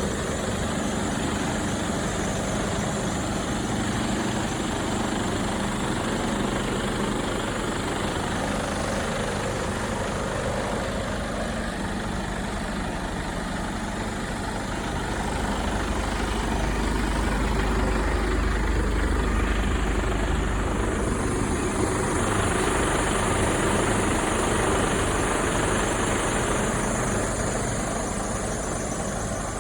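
Mercedes-Benz Actros 1848 truck's six-cylinder diesel engine running steadily near idle, growing louder and deeper for a stretch from about halfway through, then easing back near the end.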